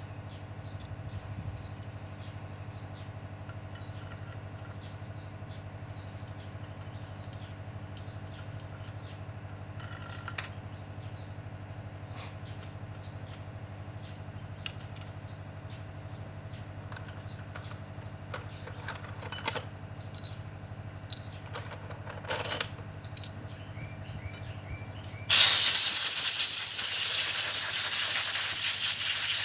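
Scattered light clicks and taps over a steady low hum, then a sudden loud, steady hiss starting near the end.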